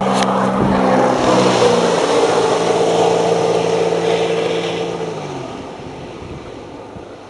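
Jet ski engine running hard at a steady pitch, then dropping in pitch and fading as it moves away, about five seconds in.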